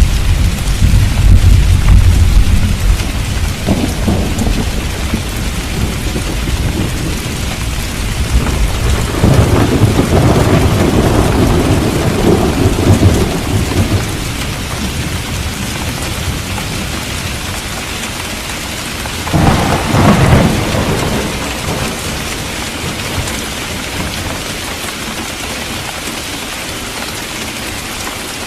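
Steady rain falling, with rolling thunder. A deep rumble at the start fades over the first few seconds, a longer rumble swells about a third of the way in, and a shorter, sharper peal comes about two-thirds of the way through.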